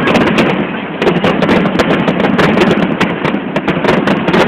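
Fireworks display going off in a dense barrage: many sharp cracks and pops a second, over a continuous crackling rumble.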